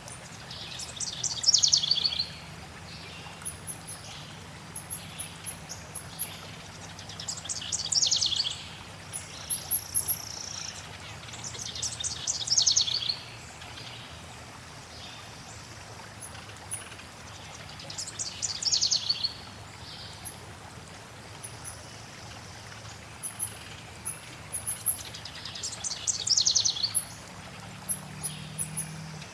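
Forest birds singing over a steady rush of flowing water: a loud song phrase that falls in pitch comes about every five to seven seconds, with faint high chirps in between.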